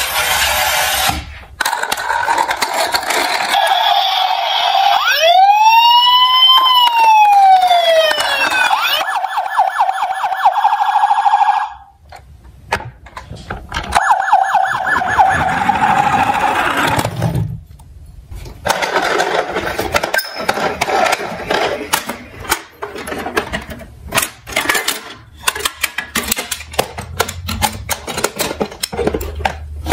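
Electronic toy siren: a steady tone, then a wail rising and falling, then a fast warbling yelp, and a pulsed tone again later. In the second half this gives way to rapid irregular clicks and rattles of small toy vehicles knocking and rolling.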